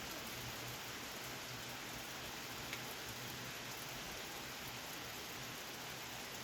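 Steady rain falling, an even hiss with one faint drip-like tick about two and a half seconds in.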